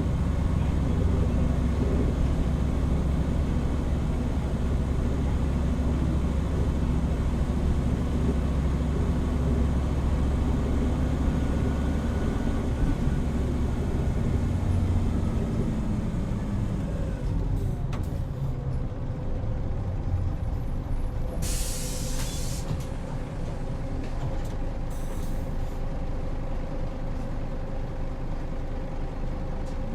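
Hino Rainbow HR city bus heard from inside the cabin: the diesel engine runs under load, then falls in pitch as the bus slows. About two-thirds of the way in, a hiss of air from the air brakes lasts about a second, a shorter hiss follows a few seconds later, and the engine settles to a lower steady note.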